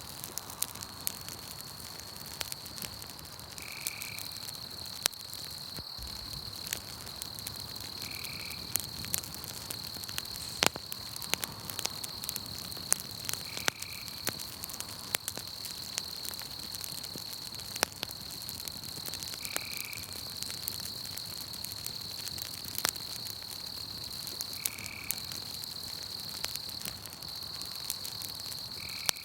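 Campfire crackling with scattered sharp pops, over a steady high-pitched trill of night insects and a short chirp that repeats about every five seconds.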